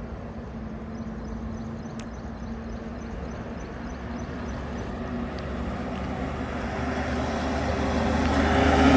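A heavy diesel truck approaching along the highway, its engine hum and tyre noise growing steadily louder until it is close at the end.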